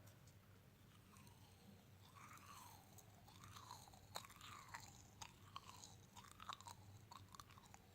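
Faint close-miked ASMR chewing, with wet mouth sounds and small crunches and clicks in a repeating rhythm that starts about two seconds in.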